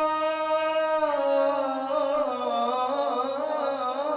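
A male reciter chanting a Shia latmiya lament in shour style. He holds one long, steady note for about a second, then moves into a wavering, ornamented melodic line.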